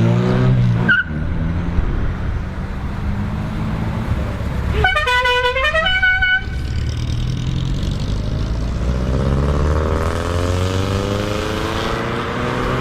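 Car engines running as cars pull away. About five seconds in, a car horn sounds for about a second and a half, its pitch stepping up and down. From about nine seconds an engine revs up, its pitch rising.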